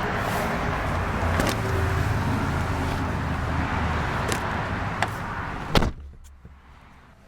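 Steady outdoor rumble and hiss with a few light clicks, then a car door shut with a single solid thud near the end. After the door closes, the outside noise drops away to the quiet of the closed cabin.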